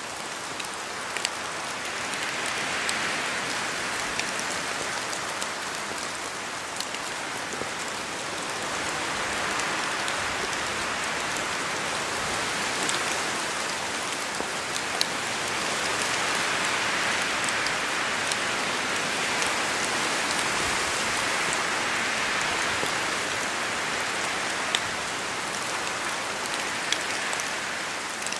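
Steady rain falling on forest trees, with scattered drops ticking sharply. A wind-like rush swells and fades every few seconds.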